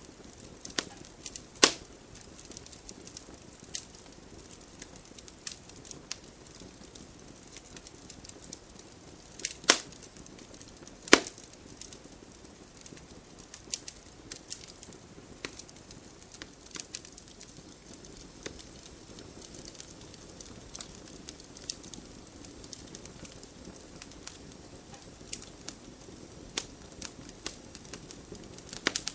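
Wood fire burning in a fireplace: a steady low hiss of the flames with irregular crackles throughout and a few loud, sharp pops of splitting wood, the loudest about two seconds in and twice around ten to eleven seconds in.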